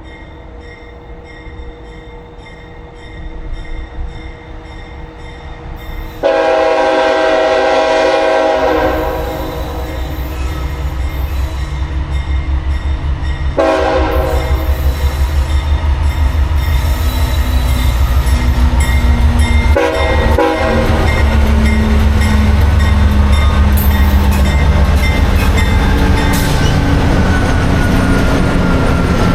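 Diesel freight locomotive horn: one long blast, a shorter blast about seven seconds later and a brief toot a few seconds after that, while the locomotives' diesel engines rumble loudly with wheels clicking over the rail joints as the train passes.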